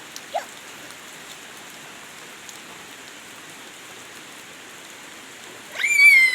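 Steady rain falling, an even hiss throughout. Near the end a loud, high-pitched call falls in pitch for about a second.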